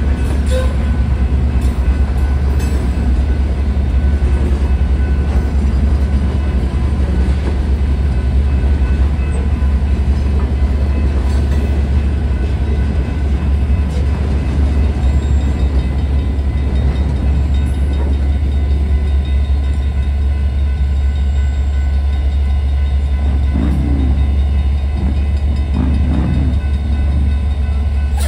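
Freight train of refrigerated boxcars rolling steadily through a grade crossing: a continuous rumble and clatter of wheels on rail. The crossing's electronic bell rings throughout.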